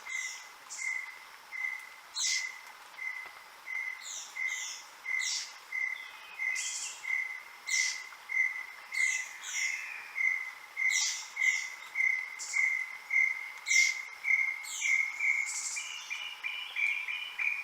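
Several forest birds singing together: one repeats a short note at the same pitch about twice a second, rising slightly in pitch and quickening near the end, while another gives high whistles that sweep downward, often in pairs.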